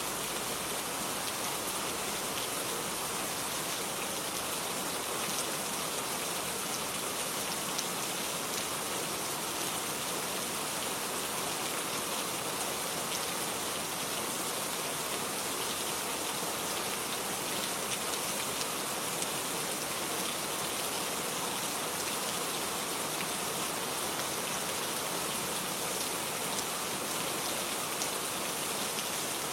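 Steady rain falling on a garden, an even hiss with faint scattered drop ticks.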